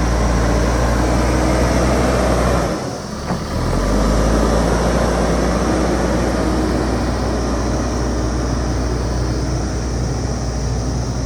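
JCB backhoe loader's diesel engine running steadily. Its low drone drops away briefly about three seconds in, then comes back.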